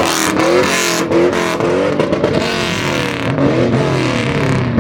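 Car engine revving hard, its pitch climbing and falling several times in quick succession over a loud rushing noise.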